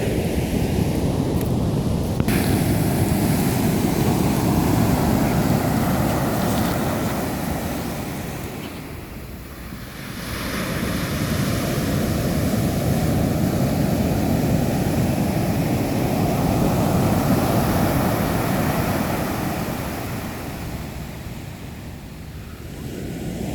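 Ocean surf washing onto the beach in two long swells, each rising and then falling away, with wind rumbling on the microphone.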